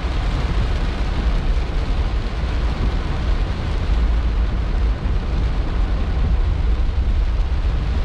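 Heavy rain pelting a car's roof and windscreen, heard from inside the cabin as a steady, loud rushing noise with a deep rumble.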